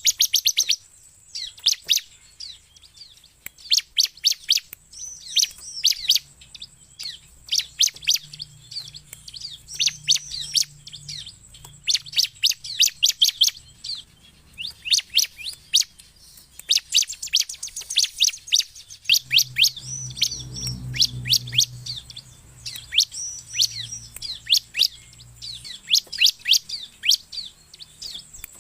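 Bar-winged prinia (ciblek) in full song: phrase after phrase of rapid, high chirps, each phrase a second or so long with short pauses between.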